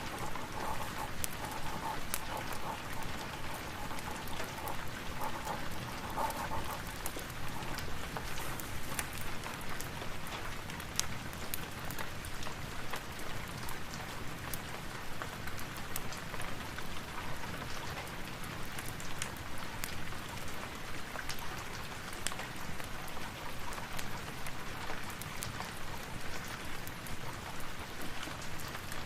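Steady rain mixed with a crackling fireplace, many sharp crackles and pops scattered through the rain. A faint held tone fades out about six seconds in.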